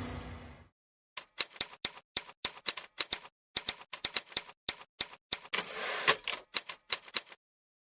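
Typewriter keys struck in an irregular run of sharp clacks, with a short rasping noise about six seconds in.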